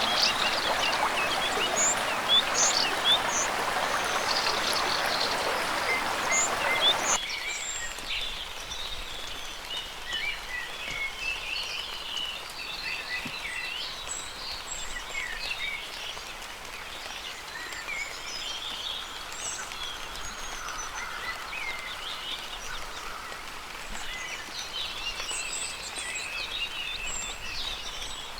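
Rainforest ambience: a dense, steady hiss with chirping calls over it cuts off abruptly about seven seconds in. It leaves a quieter forest background of scattered high bird chirps and calls.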